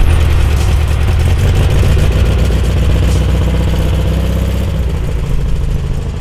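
Classic Volkswagen Beetle's air-cooled flat-four engine running as the car pulls away, the sound slowly fading as it drives off.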